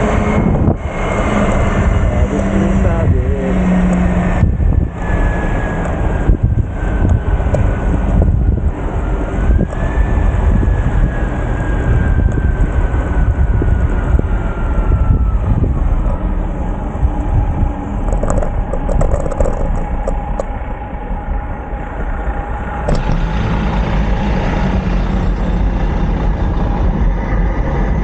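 Road traffic and wind on the microphone while riding a bicycle, with a thin tone that slowly falls in pitch through the first half.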